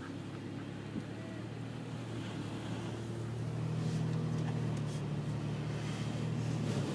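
A motor vehicle running: a steady low drone that grows a little louder about three seconds in, with a few faint clicks near the end.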